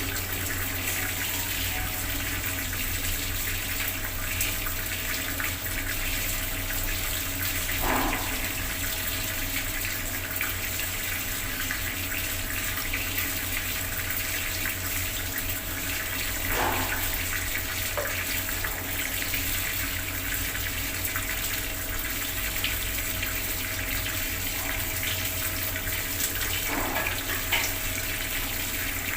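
Bathroom water tap running steadily, an even rush of water with a few brief louder splashes.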